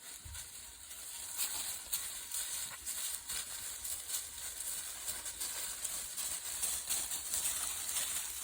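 Dry fallen leaves crunching and rustling underfoot, in irregular steps with many small crackles.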